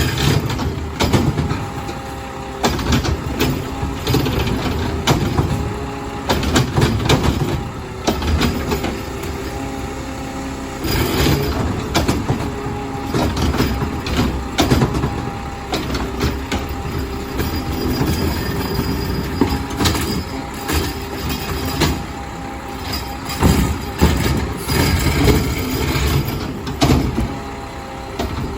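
Garbage truck at work: engine running with steady whining tones, and repeated clanks and bangs of the collection gear and containers.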